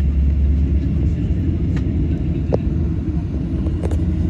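Steady low rumble inside the cabin of a Boeing 737-800 on the ground, with a few light clicks scattered through it.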